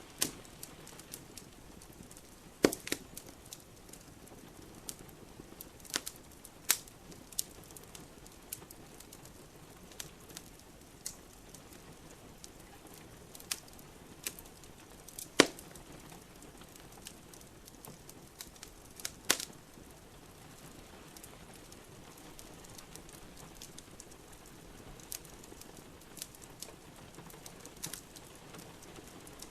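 Wood fire in a fireplace crackling, with irregular sharp pops, the loudest about halfway through, over a soft steady hiss of rain.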